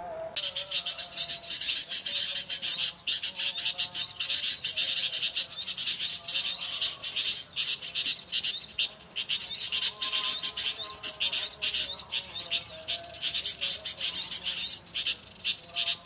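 Dense, continuous chatter of many small birds: rapid, repeated short chirps and upward-sweeping high calls overlapping, starting abruptly.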